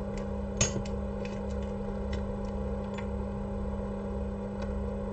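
Steady low electrical hum, with a few small clicks and taps of handling, the sharpest just over half a second in.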